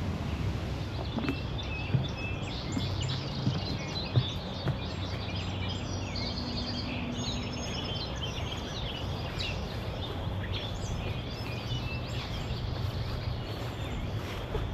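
Several songbirds chirping and calling over a steady low rumble of background noise, with a few short knocks in the first few seconds.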